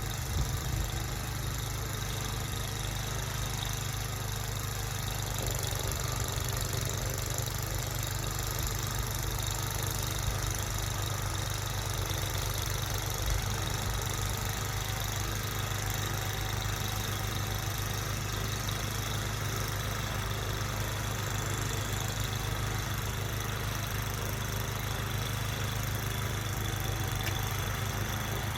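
An engine running steadily at an even speed with a low, constant hum.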